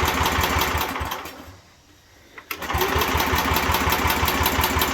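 The tractor's 7 hp Briggs & Stratton single-cylinder engine is cranked over in two tries of a couple of seconds each. It turns over in a steady rhythm of about eight strokes a second but does not catch, because it is starved of fuel.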